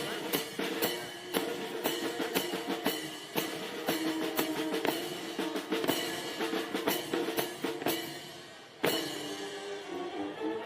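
Military band playing, with sustained brass notes over snare and bass drum strokes. Just before 9 s the music thins and fades briefly, then a loud drum stroke comes in.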